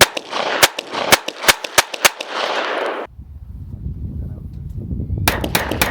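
Rapid gunfire: a quick string of about eight shots with echo between them, a pause of about two seconds with only a low rumble, then rapid shots again near the end.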